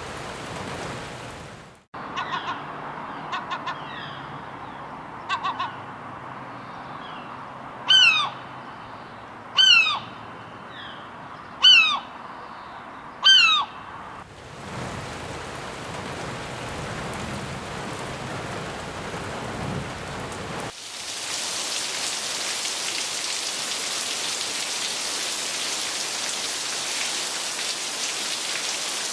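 Seagull cries: four loud calls falling in pitch, about two seconds apart, over lighter chirps and a steady hiss. Later the hiss of rain takes over, growing suddenly louder and brighter about two-thirds of the way through.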